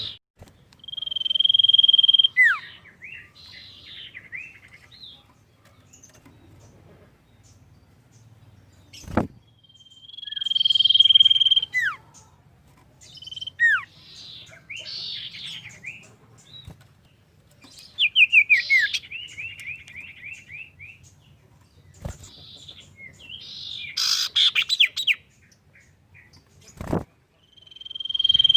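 Iora (cipoh) singing: a long, steady, high whistle that drops into a sharp downward-swept note, repeated several times with scratchy chattering notes between phrases and a fast falling trill about 18 seconds in. A few sharp clicks sound in between.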